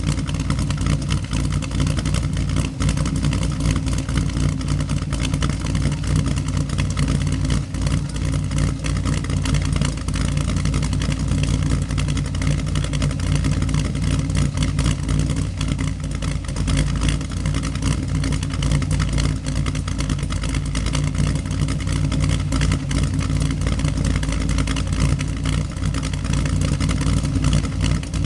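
2007 Cadillac CTS-V's LS2 V8, fitted with an aftermarket SNL V-4 camshaft, long-tube headers and Cherry Bomb mufflers, idling steadily shortly after a cold start.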